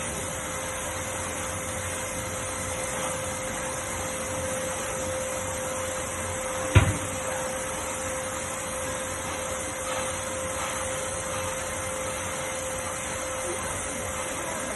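Skyvac industrial vacuum cleaner running steadily with a constant hum. A single sharp knock comes about halfway through.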